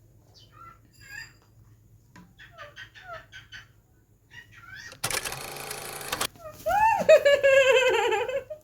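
Pet parakeets chirping softly, then a loud harsh screech about five seconds in, followed by a long loud call with a wavering pitch near the end.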